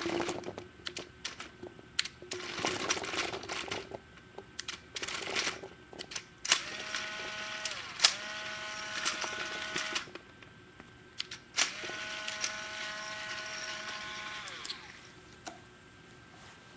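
Dye Rotor electronic paintball hopper loaded with reballs: a series of sharp clicks and rattles, then its motor whirring in two long runs, each ending with the pitch sliding down as the motor winds down. The owner finds it feeds reballs poorly.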